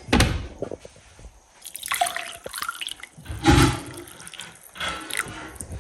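Hot herbal tea being poured, with liquid splashing in a few short bursts about a second apart.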